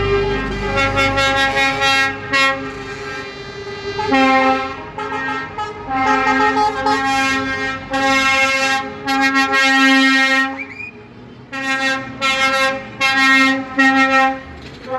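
Truck air horns blasting again and again, several steady tones sounding together as a chord in long and short blasts. A low rumble sits under the first second.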